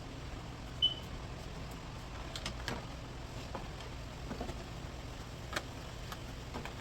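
Scattered light clicks and taps over a steady low hum, with one very short high beep about a second in.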